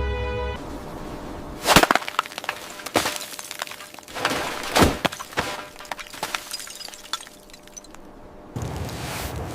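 Background music stops about half a second in, then a run of irregular sharp cracks and snaps, like something brittle breaking or splintering, spaced about a second apart.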